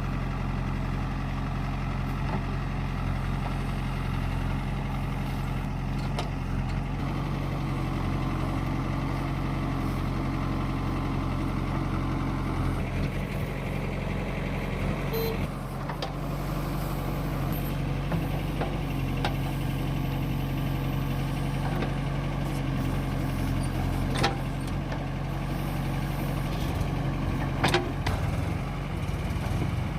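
Diesel engine of heavy earthmoving machinery running steadily, its note shifting slightly a couple of times, with a few sharp knocks from the machine's work, the loudest two near the end.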